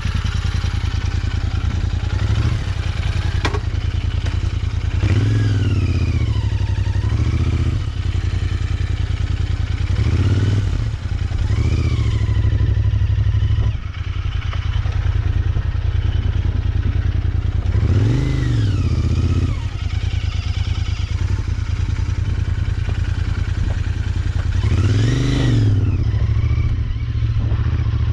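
Motorcycle engine running, its revs rising and falling about four times as the bike speeds up and slows through the turns.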